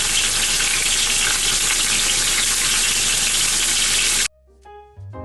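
Chicken wings searing in hot peanut oil in a pan, a loud steady sizzle. It cuts off abruptly about four seconds in, and keyboard-like music begins.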